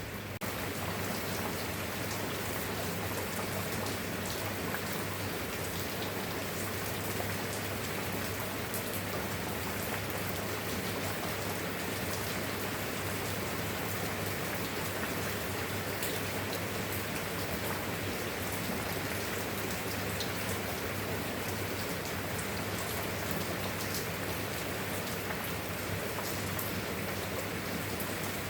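Steady, even rainfall with scattered drop ticks, over a steady low hum.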